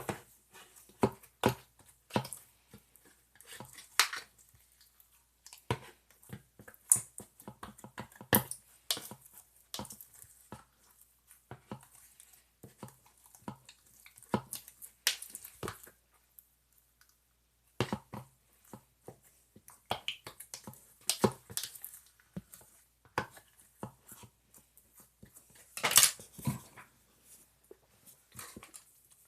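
Slime being squeezed, stretched and mixed by hand, giving irregular wet clicks and sticky pops with a short pause about halfway through.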